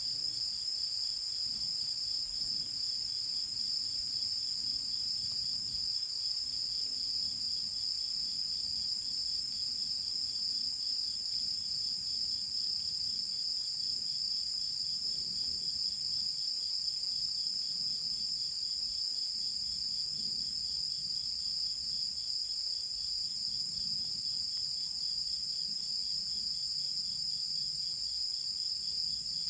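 Night chorus of crickets and other insects: a steady, unbroken high-pitched chirring, with a faster pulsing trill running beneath it.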